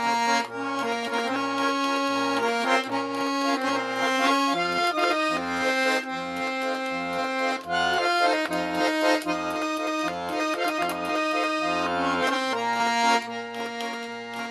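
Russian garmon (button accordion) playing an instrumental interlude between verses of a song: a held melody over a rhythmic pulsing bass-and-chord accompaniment.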